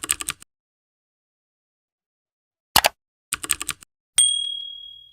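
Typewriter sound effect: short runs of rapid key clicks separated by dead silence, then a single bright bell ding that rings out for about a second.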